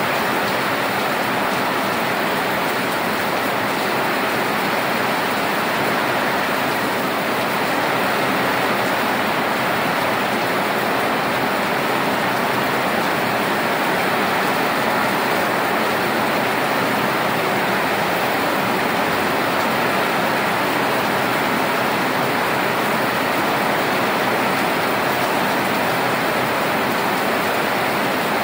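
Rain falling steadily: a loud, even hiss of downpour that does not let up.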